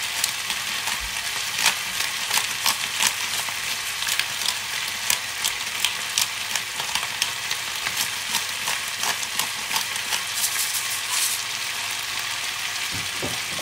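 Chicken feet sautéing in a frying pan, a steady sizzle with frequent irregular crackles and pops.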